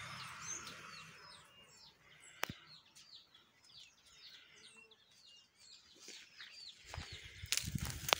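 Small birds chirping, a quick run of short, high, hooked notes repeated over and over. A single sharp click about two and a half seconds in, and rustling and brushing noise near the end.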